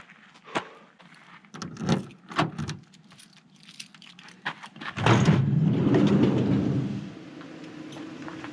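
Clicks and rattles of gear and keys, then about five seconds in a vehicle engine starts, runs loud for a couple of seconds and settles to a steady idle.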